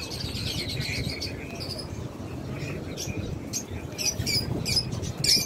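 Caged birds chirping: a string of short, high chirps, busier in the second half, over a steady low background rumble.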